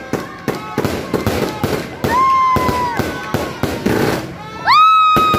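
Aerial fireworks going off in rapid cracks and pops. A shrill held tone sounds about two seconds in, and a louder one rises and then holds near the end.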